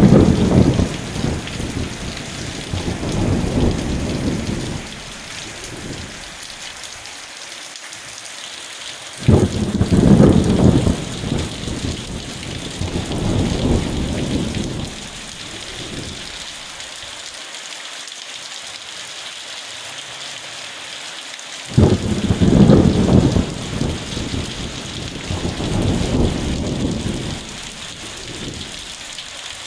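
Steady rain falling, with thunder rolling three times: once at the start, once about nine seconds in and once about twenty-two seconds in, each roll fading over several seconds.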